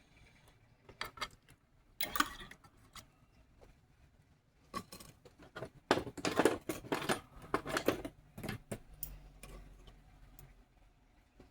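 Small metal tools and parts being handled, with scattered sharp clicks and a busier run of clattering about six to eight seconds in.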